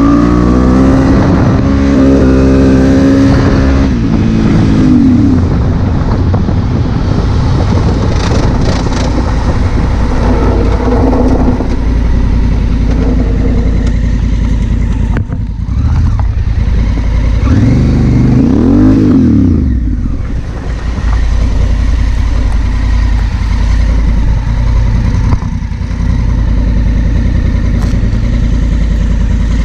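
Honda Africa Twin CRF1000L's parallel-twin engine under way, loud and continuous. Its pitch climbs and falls with the throttle, most clearly near the start and again about two-thirds of the way through, with short dips in between.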